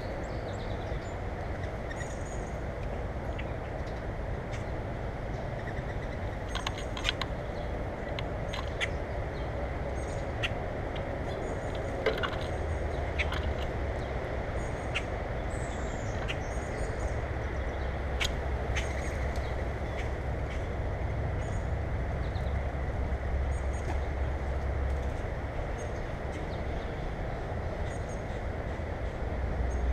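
Small birds at a feeder giving scattered short chirps and sharp ticks over a steady low rumble of background noise, the rumble growing stronger through the middle.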